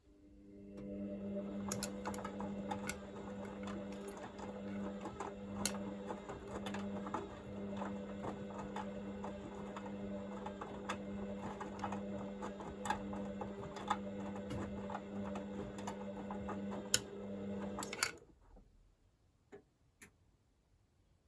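Hoover VisionDynamic washing machine tumbling its drum during the heat-to-40 °C wash phase. The motor hums steadily, with light clicks and ticks from the laundry turning in the drum. It starts just after the beginning and stops abruptly about eighteen seconds in.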